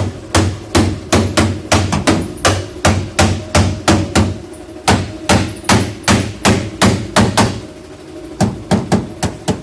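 Hammer beating a Toyota Corolla's rear sheet-metal body panel, a steady run of about three ringing metallic blows a second as the dents are knocked out. There is a short pause about three-quarters of the way through before a few more blows.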